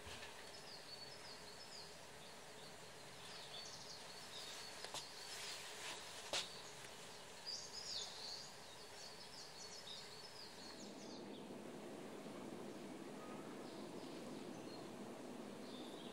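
Wild songbirds chirping in scattered bursts of short high notes over a steady outdoor background hiss, with one sharp tick about six seconds in.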